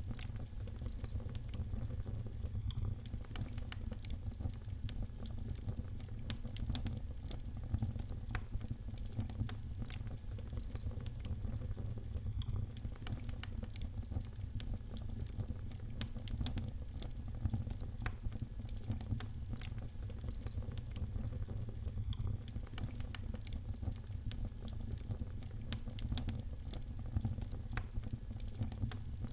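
Wood fire in a fireplace crackling: frequent small, sharp, irregular pops over a steady low rumble of the flames.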